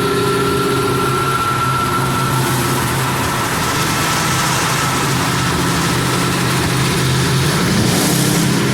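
Car engine running steadily at cruise with road and wind noise. The engine note rises briefly near the end.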